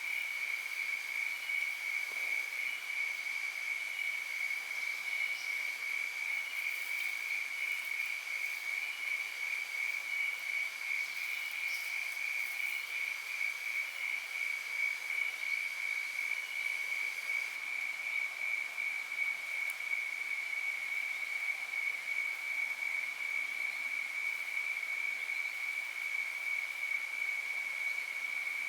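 Steady high-pitched chorus of insects, with a second pulsing call above it that fades out about two thirds of the way in.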